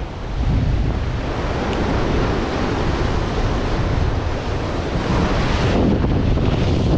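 Ocean surf washing on a beach, with wind buffeting the microphone; a wave breaks and washes in loudest about five and a half seconds in.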